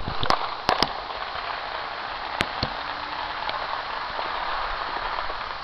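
Fireworks heard at a distance: four sharp pops in the first two and a half seconds, over a steady crackling hiss.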